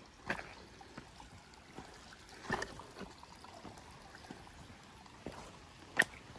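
Footsteps of a hiker walking on a trail: irregular short crunching steps, with a cluster about two and a half seconds in and one sharper, louder step near the end.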